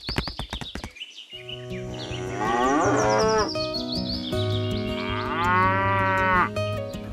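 Cattle mooing, dubbed as a sound effect: two long moos that rise and fall in pitch, after a rapid clicking that stops about a second in.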